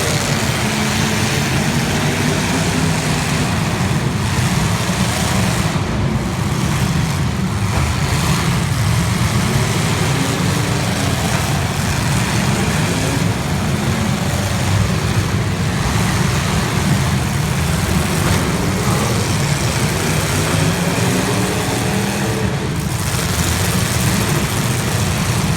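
Several demolition derby cars' engines running and revving together in a loud, continuous din, their pitches rising and falling.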